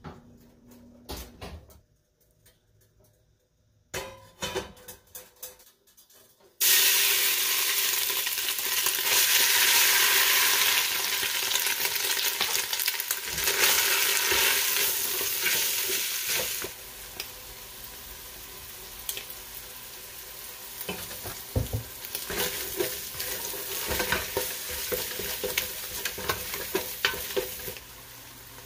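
Hot oil in a stainless steel stockpot sizzles loudly as a ground paste goes in, starting suddenly about a quarter of the way in. A bit past halfway it settles into a quieter, steady frying sizzle, with a wooden spoon stirring and scraping against the pot. Before the sizzle starts there are only a few light clicks and knocks.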